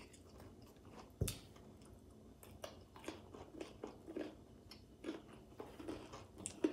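Chewing and crunching on crispy-breaded Popeyes fried chicken sandwiches: soft, close chews about twice a second, with one sharper click about a second in.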